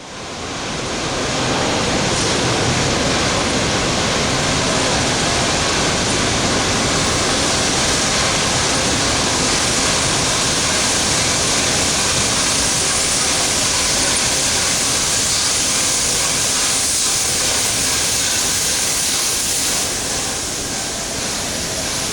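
Steady loud hiss of steam from the A1 Pacific steam locomotive 60163 Tornado, easing slightly near the end.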